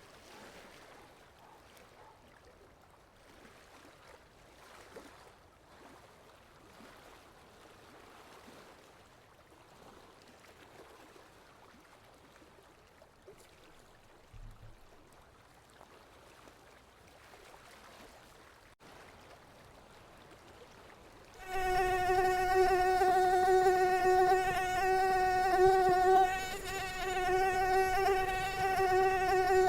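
Mosquito wing whine. For most of the stretch there is only a faint hiss, then about three-quarters of the way through the high buzzing whine starts abruptly and holds loud and steady, its pitch wavering slightly.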